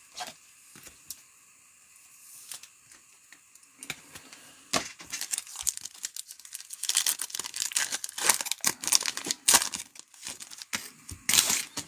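Trading-card pack wrappers being torn open and crinkled, with light handling clicks. Sparse and quiet for the first few seconds, then continuous tearing and crinkling from about four seconds in.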